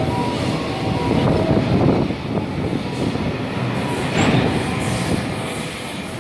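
Freight train running through the station, its wagons rumbling past with a loud, uneven rumble and faint thin wheel squeal.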